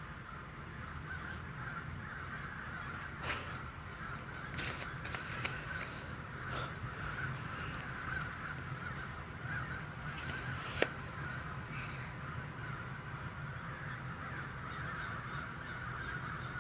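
A flock of birds chattering steadily, with a few short sharp clicks.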